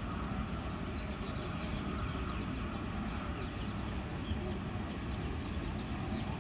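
Steady low rumble of electric trains, with faint voices in the background.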